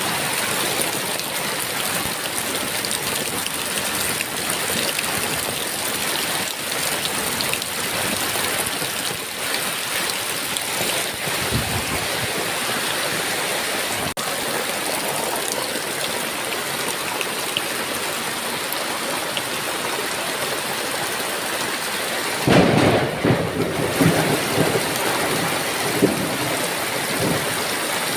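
Heavy rain falling steadily. About two-thirds of the way through, a sudden loud thunderclap breaks in and rumbles on for a few seconds.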